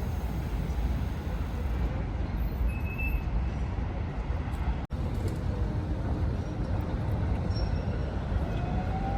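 A Tatra tram and street traffic, with a steady low rumble. The sound drops out abruptly for a moment about five seconds in, and a faint rising whine comes near the end.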